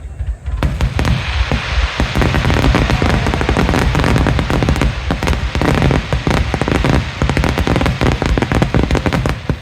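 Aerial fireworks display going off in a dense, rapid barrage of overlapping bangs and crackles. The barrage starts suddenly about half a second in.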